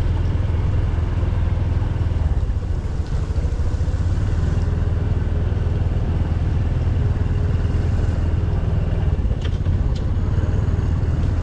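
An engine running steadily, its sound mostly low-pitched, with a couple of faint clicks near the end.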